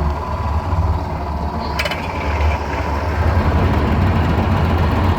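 Two-stroke jet-drive outboard motor on a jon boat running steadily at low speed, with a brief sharp click a little under two seconds in.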